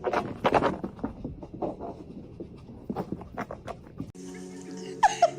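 A dog panting in quick, irregular breaths. About four seconds in it gives way to background music with a couple of short high-pitched squeaks.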